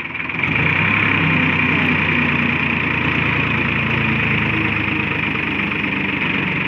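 Ford 3600 tractor engine running steadily, growing louder about half a second in and then holding.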